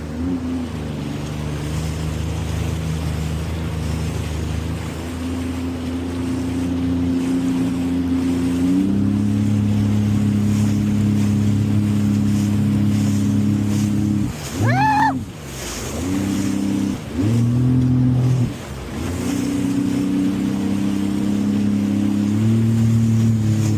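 Jet ski engine running under throttle. Its pitch steps up about nine seconds in, then drops off and picks up again a few times in the second half, with one brief sharp rise and fall in pitch about fifteen seconds in.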